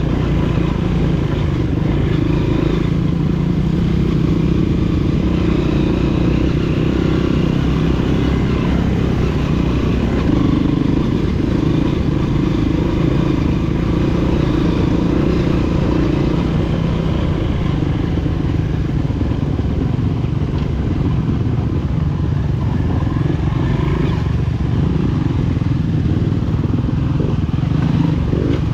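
Honda CRF230F's air-cooled single-cylinder four-stroke engine running steadily, freshly overhauled and under a long running test for a ticking noise.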